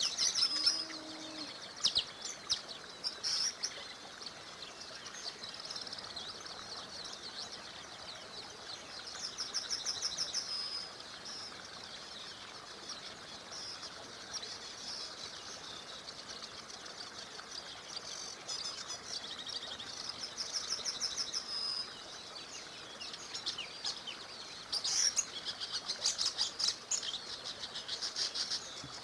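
Songbirds singing in repeated high phrases and rapid trills, several times over, against the steady rushing hiss of a small river.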